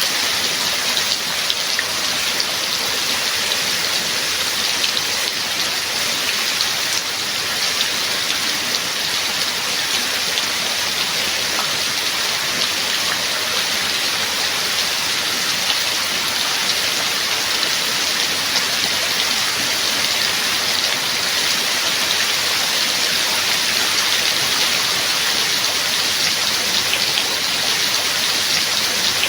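Rain falling steadily: an even hiss of many drops, with faint individual drop ticks scattered through it.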